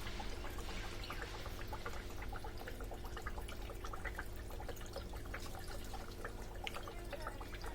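Indoor artificial water fountain: water trickling and splashing with many small irregular drips, over a steady low hum.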